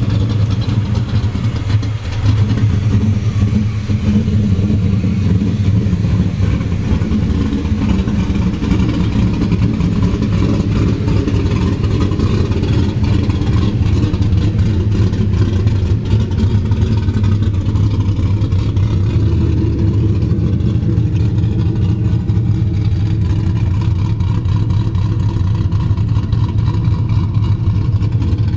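A 2001 Pontiac Trans Am WS6's LS1 V8 idling steadily. It has a lumpy, choppy idle from its Texas Speed Torquer V2 camshaft (232/234 duration, 112 LSA) and runs through Headman headers and a Hooker Aero cat-back exhaust.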